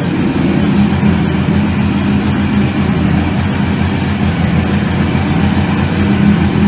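Chevrolet 400 engine idling steadily with an even, pulsing exhaust beat.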